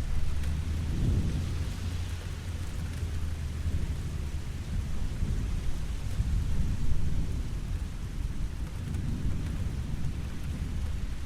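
Steady rain falling, with a low rumble of thunder underneath that swells about a second in and again near the end.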